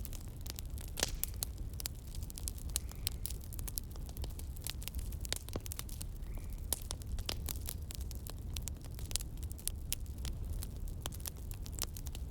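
Wood campfire crackling, with frequent sharp snaps and pops, several a second, over a steady low rumble.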